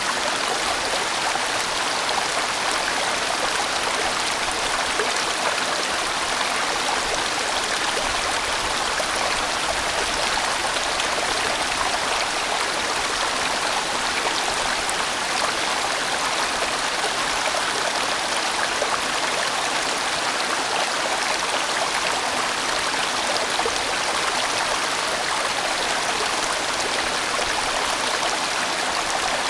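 A large mountain stream flowing over rocks in a steady, even rush of water.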